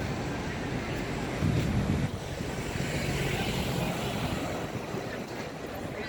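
City street traffic: steady vehicle noise, loudest as a vehicle passes about one and a half to two seconds in.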